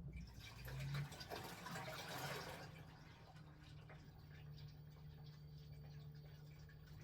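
LG T16MU top-loading washing machine running with water: a rushing, splashing burst of water in the drum for about the first two and a half seconds, then a steady low machine hum with faint water sounds.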